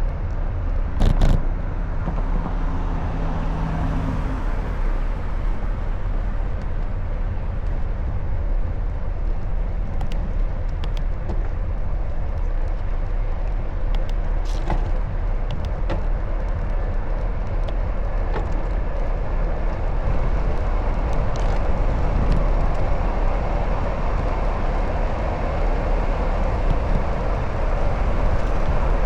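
Steady street and traffic noise heard from a moving bicycle, heaviest in a low rumble, with a short loud knock about a second in and a few scattered clicks.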